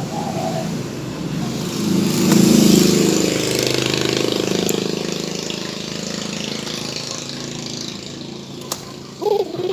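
Passing motor vehicle: a rushing engine noise that swells to its loudest a couple of seconds in and slowly fades. Near the end a dove starts cooing, a run of short arching notes.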